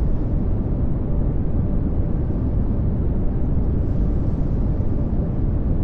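Pink noise: a steady, even rushing noise, heaviest in the low end and thinning toward the top, with no tone or rhythm.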